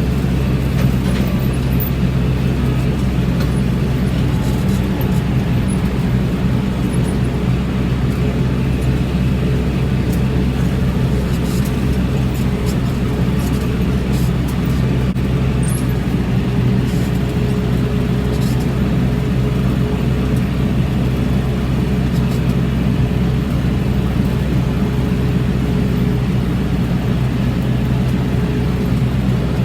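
Tractor engine running steadily under way, a loud, even drone.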